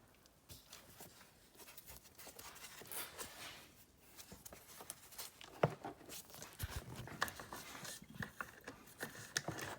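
Hands working among plastic engine-bay parts and wiring: scattered small clicks and rustles, with one sharper knock about halfway through.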